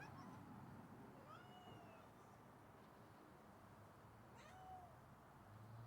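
A cat meowing twice, about three seconds apart, each meow a short faint call that rises and then falls in pitch.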